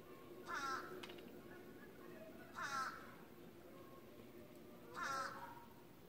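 A wild bird calling outdoors: three short, harsh calls spaced about two and a half seconds apart.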